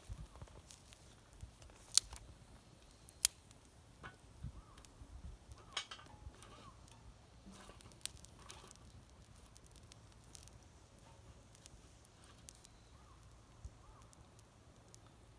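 Intermittent sharp clicks and snips of hand work on a small homemade fire pit, two of them much louder than the rest at about two and three seconds in.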